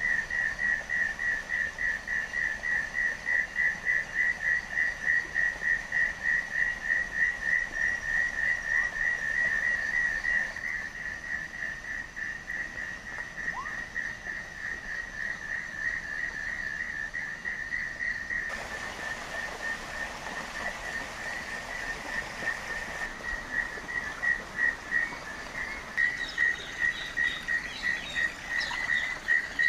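A high, rhythmic animal call pulsing several times a second runs on with a steady pitch. It fades somewhat partway through and comes back stronger near the end, with faster chirps over it. A few seconds past the middle, a steady hiss of noise sits under it.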